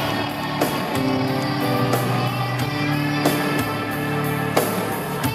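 Live rock band playing an instrumental passage led by guitar, with sustained chords and occasional drum hits.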